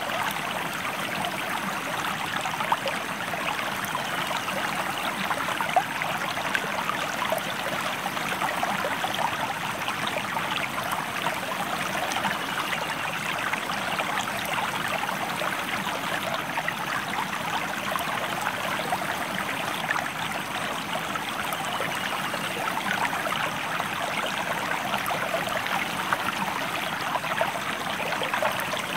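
Stream water flowing: a steady rush with constant small splashes and trickles.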